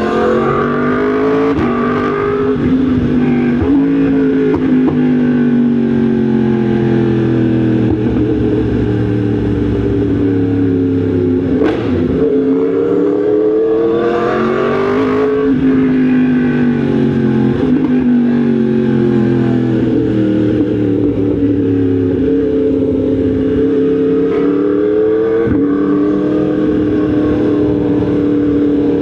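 Yamaha MT-10 SP's crossplane inline-four engine running under way, its note rising and falling several times as the rider accelerates and changes gear.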